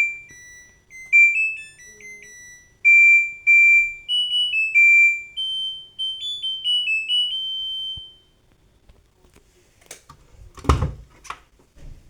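LG washing machine's buzzer playing its end-of-cycle melody, a tune of clear electronic beeps stepping up and down that stops about eight seconds in. A few short knocks follow a couple of seconds later.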